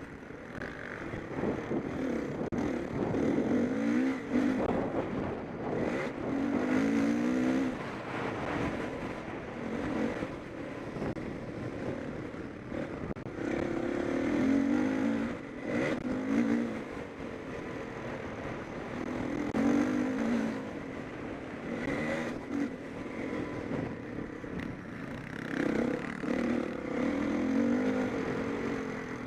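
Motocross bikes racing, their engines revving up and down again and again as riders accelerate and back off, the pitch rising and falling in repeated surges.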